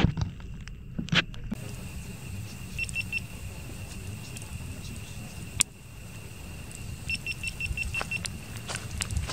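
Campfire crackling, with sharp pops of burning wood: one loud pop a little past the middle and a cluster near the end, over a low rumble. A faint steady high tone runs through it and twice breaks into short rapid beeps, three about three seconds in and about seven near the end.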